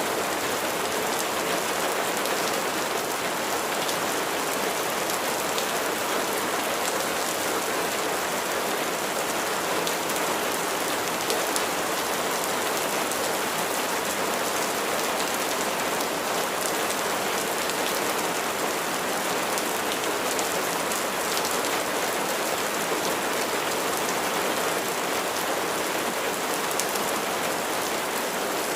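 Steady rain: an even hiss of falling rain with individual drops ticking through it, unchanging throughout.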